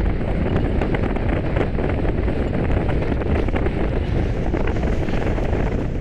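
Strong wind buffeting the microphone in a steady, loud, low rumble.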